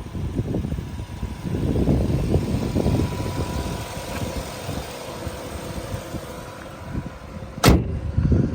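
1995 Nissan Cima hearse's engine idling under an uneven low rumble, with one sharp knock near the end.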